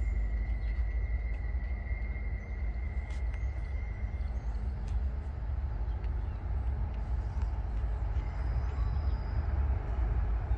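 Low steady rumble of an approaching freight train's diesel locomotives, growing a little louder near the end.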